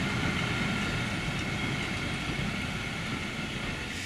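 Vintage museum train, wooden coaches between 1920s petrol railcars, rolling past on the rails. A steady rumble that slowly fades as it moves away.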